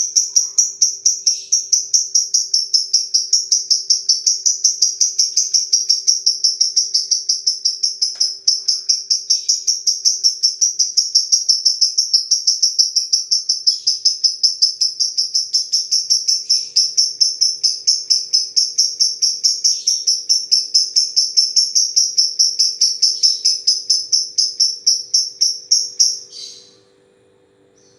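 Lovebird singing a long 'ngetik' song: a rapid, unbroken string of high, even chirps like fast typing, which breaks off near the end.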